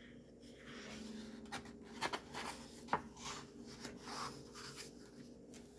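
Pages of a coloring book being turned and handled: soft paper rustling and rubbing with a few short paper snaps, the sharpest about three seconds in.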